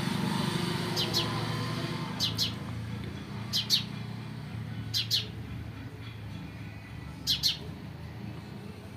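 Small birds chirping in short, high double chirps, about five times a second or two apart, over a steady low hum.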